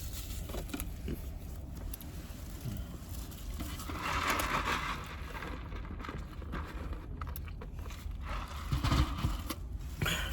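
Steady low rumble inside a car's cabin, with a brief rustle about four seconds in.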